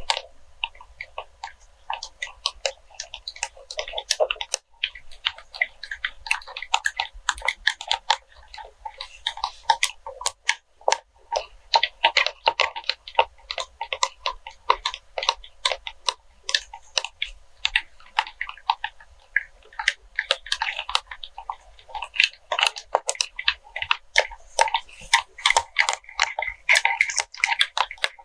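ASMR tapping and scratching on wax melts: a dense, irregular stream of small clicks and crunchy crackles, sometimes coming in quick flurries.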